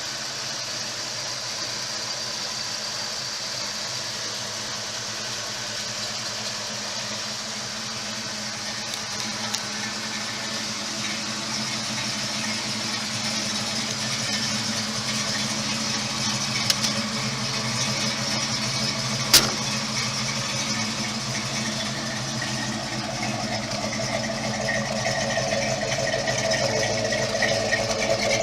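1969 Ford Mustang Mach 1's V8 engine running at a steady idle, growing gradually louder over the last several seconds, with a single sharp click about two-thirds of the way through.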